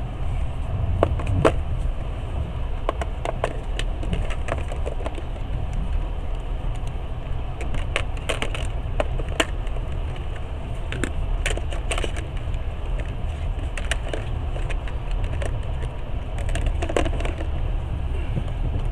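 Passenger train running: a steady low rumble with scattered sharp clicks and rattles at uneven intervals.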